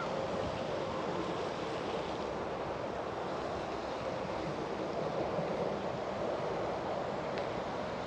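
Steady rushing outdoor ambience of wind and distant traffic, with a faint steady hum running through it.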